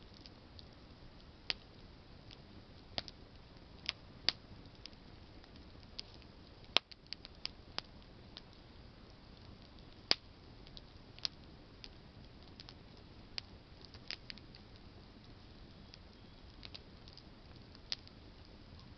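Campfire of burning branches crackling: scattered sharp pops at an irregular pace, now and then two or three close together, over a soft steady hiss of the flames.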